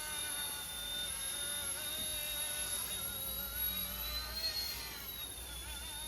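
Micro RC helicopter's electric motor and rotors whining steadily in flight. The pitch rises briefly about two-thirds of the way in, then falls back as the throttle eases.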